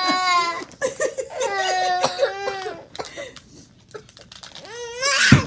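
Young children laughing and squealing in long, wavering bursts, with a sudden thump near the end.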